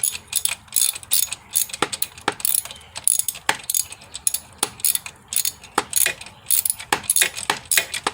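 Hand ratchet clicking in repeated back-and-forth strokes, about two a second, as it tightens an alternator mounting bolt down.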